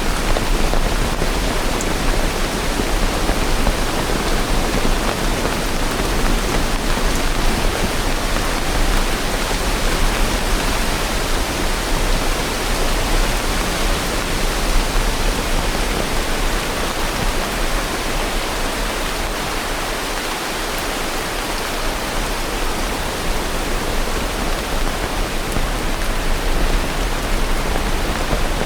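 Steady heavy rain: a dense, even hiss of rainfall that holds without pause or change.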